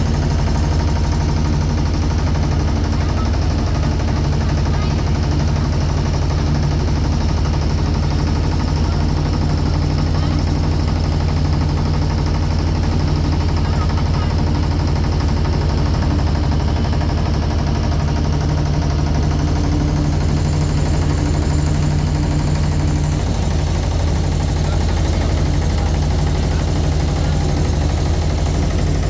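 A boat's engine running steadily at a constant pace, with a fast, even chugging.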